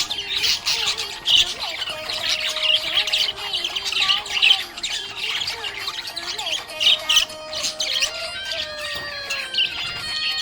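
A group of budgerigars chirping and squawking rapidly in a busy, continuous chatter. Steady held musical tones come in about two seconds before the end.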